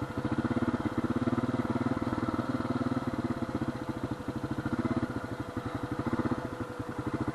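A Honda FourTrax quad's engine idles steadily, with a fast, even putter.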